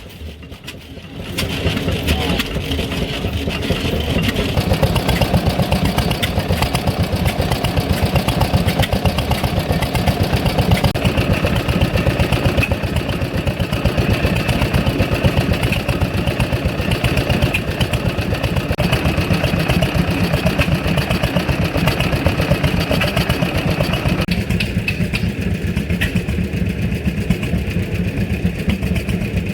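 An internal-combustion engine running with a steady pulsing beat. It comes in loud after a quieter first second or so, and its tone changes at about 24 s as some of the higher sound drops away.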